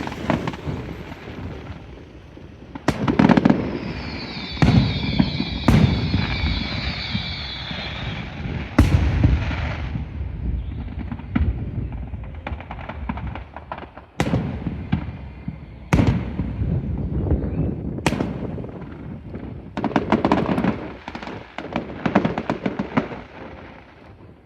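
Aerial fireworks going off: a dozen or so loud bangs at irregular intervals, each trailing into a rumbling echo, with a crackling hiss between about 4 and 8 seconds in.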